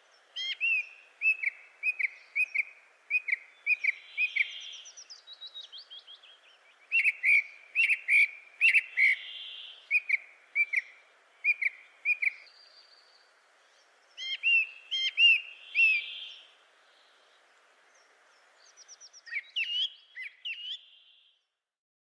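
Bird calling: runs of short, sharp chirps, with softer whistled notes between them and a couple of brief pauses.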